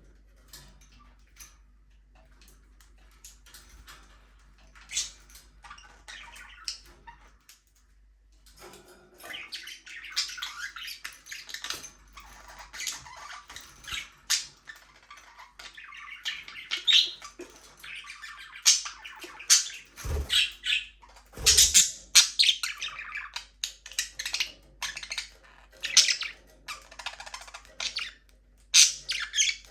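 Budgerigars chirping: a few scattered short chirps at first, then from about nine seconds in a busy, continuous warbling chatter with sharp squawks. Two brief low thumps come a little past the middle.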